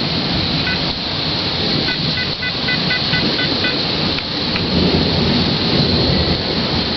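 Heavy thunderstorm: steady, loud rain with low thunder rumbling under it. A run of short, high electronic beeps sounds briefly in the first half.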